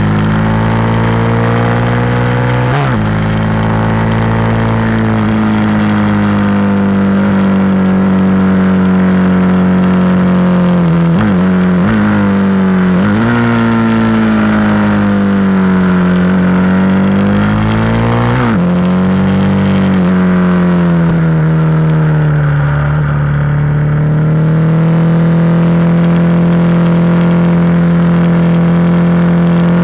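A KTM SMC supermoto's single-cylinder engine running hard on track, heard from on the bike. Its note rises and falls through the corners and straights, broken sharply a handful of times by gear changes, and runs steadier near the end.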